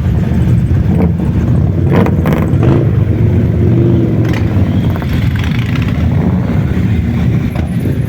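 Motorcycle engines running with a loud, steady low rumble, with a few sharp knocks and clatters.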